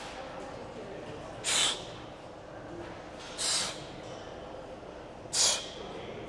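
A person's sharp, hissing breaths close to the microphone, three of them about two seconds apart, over steady gym room noise.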